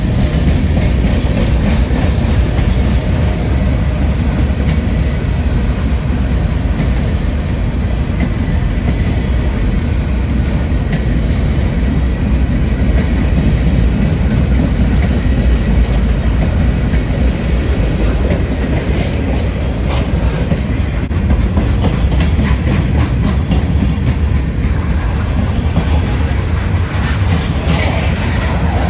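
Freight train rolling past: a steady, loud low rumble with steel wheels clicking over the rail joints.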